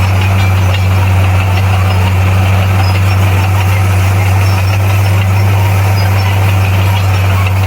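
Bulldozer's diesel engine running steadily, a constant low drone with no change in pitch.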